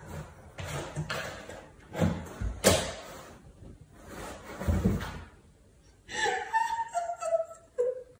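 A door being knocked and bumped several times, in separate thuds over the first five seconds. A short wavering pitched call follows near the end.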